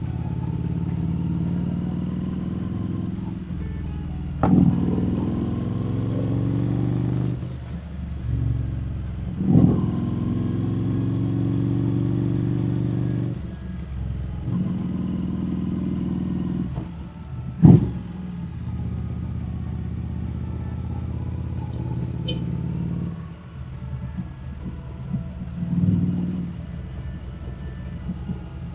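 Harley-Davidson Street Rod 750's V-twin engine running while riding on a road. Its pitch shifts several times with changes in throttle and gear, with brief louder spikes about 4, 9 and 17 seconds in, and it gets quieter in the last few seconds.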